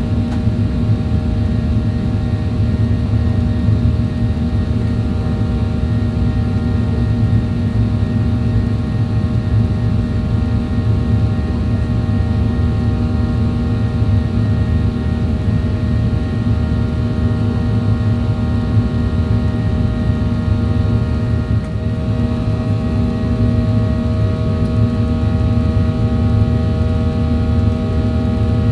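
Cabin noise of a Boeing 737-800 in flight: a steady low rumble from its CFM56 jet engines and the airflow, with several steady whining tones over it that shift slightly about 22 seconds in.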